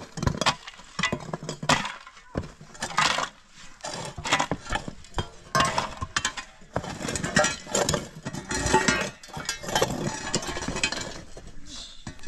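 A busy run of clinks and knocks from hard objects being handled, many strikes close together.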